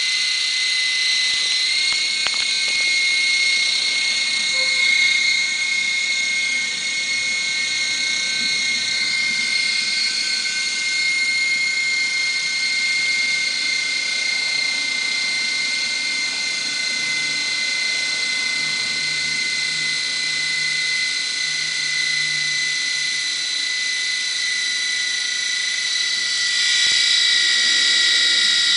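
Micro RC helicopter's small electric motors running with a steady high whine, the pitch sagging slightly near the end. One of its motors is faulty, so the helicopter no longer lifts off.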